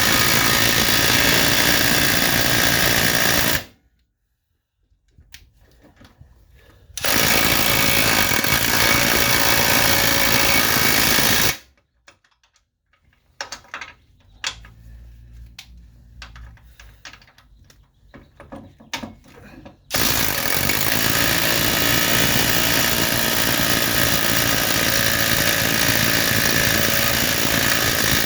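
Impact wrench hammering on a stubborn suspension bolt in three long runs, the last one running on for more than eight seconds, with a few light clicks and knocks in the pauses between runs. The bolt is still holding against it.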